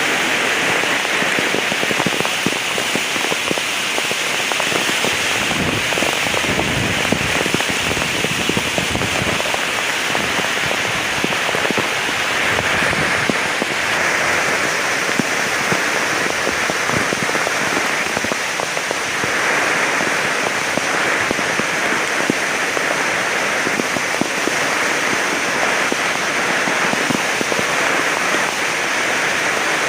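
Heavy rain pouring steadily, with dense patter of drops hitting surfaces. A low rumble swells underneath about five to ten seconds in.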